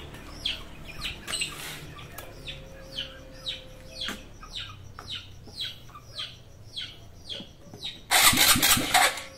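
A bird chirping over and over, about two short falling chirps a second. About eight seconds in, the Honda XRM 125 Fi's single-cylinder engine is cranked in a loud burst of a second or so: a start attempt on a hard-starting engine.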